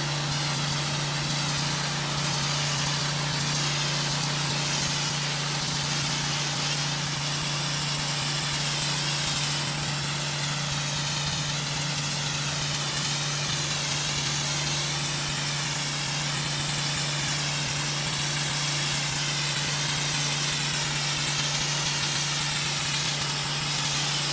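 Gas-engine pressure washer running steadily, with the hiss of its high-pressure water spray on concrete.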